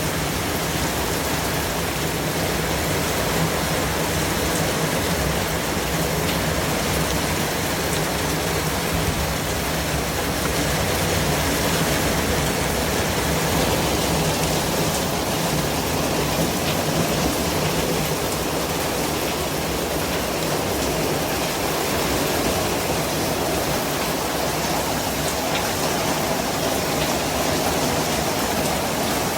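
Steady white-noise hiss, even across the whole range and unchanging in level.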